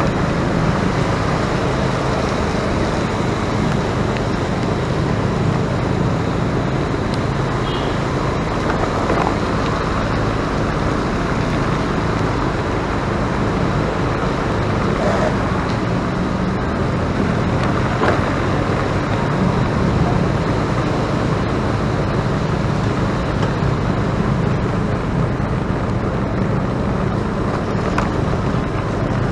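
Steady road-vehicle noise: a continuous low rumble with no clear separate events.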